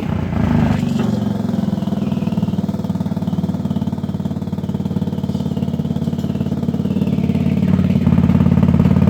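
Forza 250 scooter's single-cylinder engine running through its exhaust: a short blip about half a second in, then a steady idle that picks up slightly near the end.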